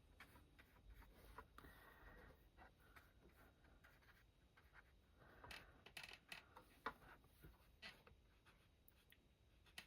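Faint scratching and dabbing of a paintbrush working paint across watercolour paper, in irregular strokes, with a sharp light click about seven seconds in.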